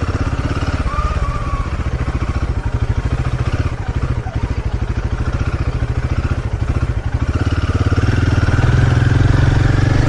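Motorcycle engine running as the bike is ridden along a trail, louder from about eight seconds in.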